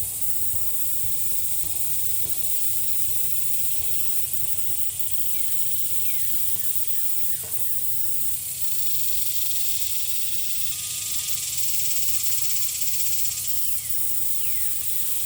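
Steady high-pitched insect chorus, with a few short falling chirps at intervals.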